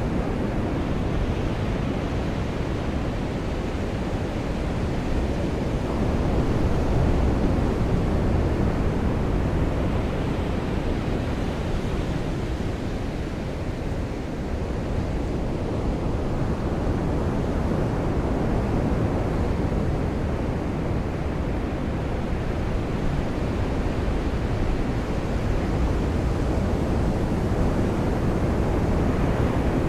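Steady low rush of surf and rain on a beach, slowly swelling and easing over several seconds.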